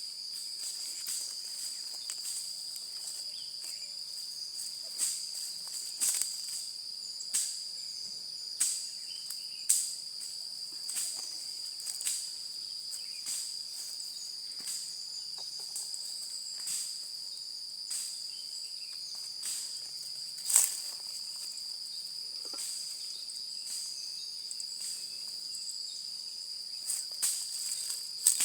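A steady high chirring of insects, with irregular sharp crackles and pops of a wood campfire every second or so; one pop about twenty seconds in is the loudest.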